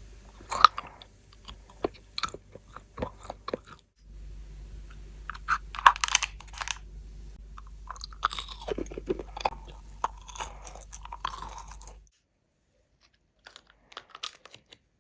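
Crunchy candy or chocolate bitten and chewed close to the microphone, a run of sharp crunches and crackles. The sound changes abruptly about 4 seconds in and again about 12 seconds in, and only a few faint crunches follow near the end.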